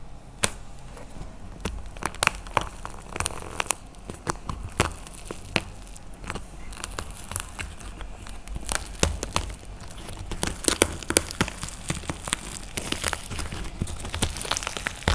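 Dried plaster clay being crushed and cracked by hand: a quick, uneven run of crisp cracks and crunchy pops, denser and louder in the second half.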